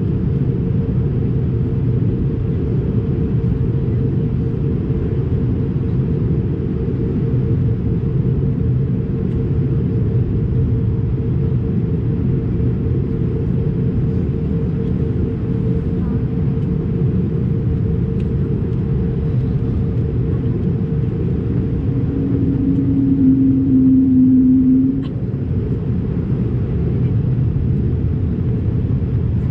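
Steady low cabin rumble of an Airbus A220-300 in descent: engine and airflow noise, with a constant hum above it. Near the end a louder low drone lasts about three seconds and cuts off suddenly.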